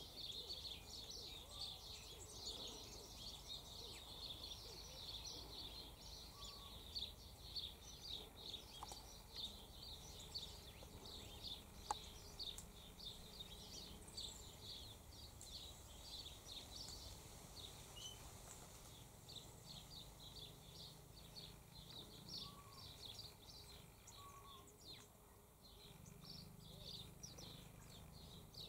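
Faint background of small birds chirping, many short high chirps repeating throughout.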